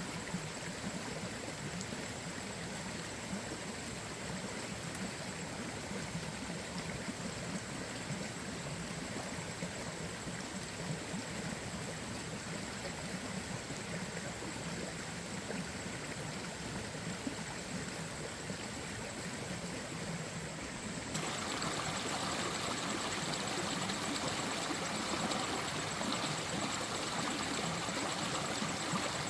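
Steady rushing water noise with no distinct strokes or drops, stepping up in level about two-thirds of the way through.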